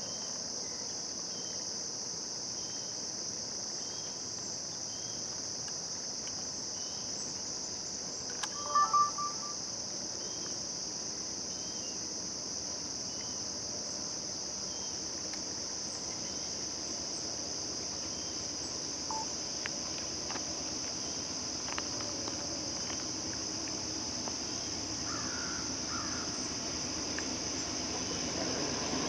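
A steady high chorus of crickets and other insects chirping, with a brief loud tone about a third of the way in. Toward the end a low rumble slowly builds.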